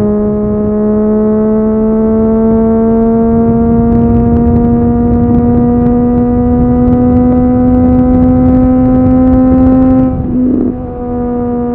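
Triumph Street Triple 765 RS's 765 cc inline-three engine through an Akrapovic exhaust, pulling under way with its pitch slowly rising. About ten seconds in the note breaks briefly and dips, as at a gearshift, then runs steady again.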